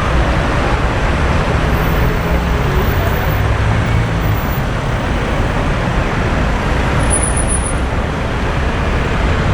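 Street traffic: a steady wash of engine and tyre noise from passing vehicles, with a low engine rumble swelling a little between about two and four seconds in.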